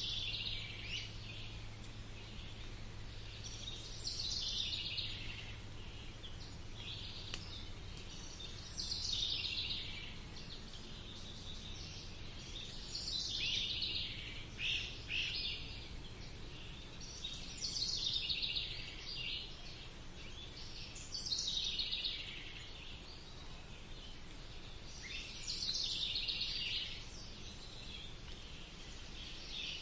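A songbird repeating the same short song phrase about every four seconds, each phrase sliding down in pitch over about a second, over a steady low background noise.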